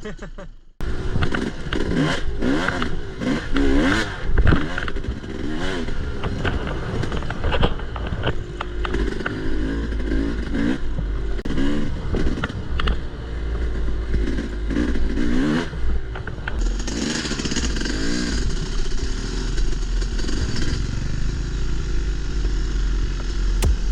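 Dirt bike engine revving up and easing off again and again while riding, with wind rumbling on the microphone. It starts abruptly about a second in.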